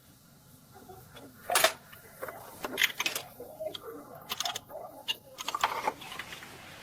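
Irregular mechanical clicks and clinks, as from hand tools and metal parts being handled. The loudest comes about one and a half seconds in, followed by a scattered run of smaller ones.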